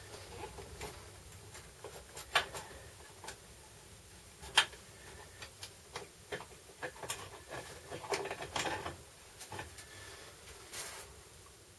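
Irregular clicks and knocks of tools and transfer case parts being handled during disassembly, with two sharper knocks early on and a busier run of clatter past the middle.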